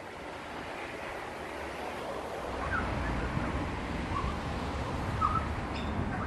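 Wind buffeting the microphone, a steady rumbling hiss that grows stronger about two and a half seconds in, with a few faint short bird chirps over it.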